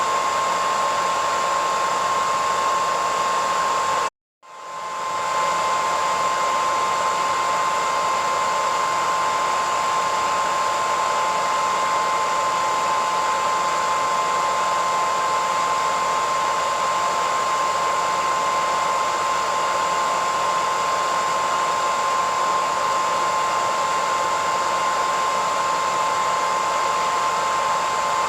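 Hair dryer running with a steady whooshing rush and a strong steady whine near 1 kHz. About four seconds in, it cuts out abruptly for a moment, then swells back to full within about a second.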